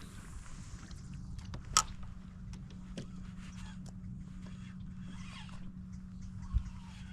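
A few knocks and clicks on a fishing kayak: a sharp click just under two seconds in, a lighter one about a second later, and a dull thump near the end, over a steady low hum.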